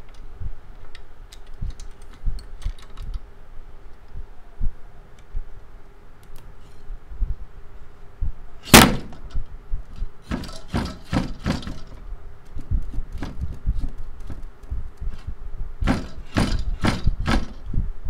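Hard knocks and clacks: one loud sharp knock about nine seconds in, then two quick runs of about five knocks each, over a faint steady hum.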